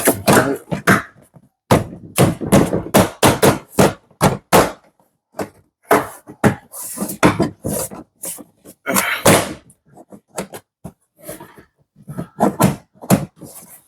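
A run of irregular knocks and thuds from the plastic tailgate trim panel being handled and pressed onto its metal retaining clips.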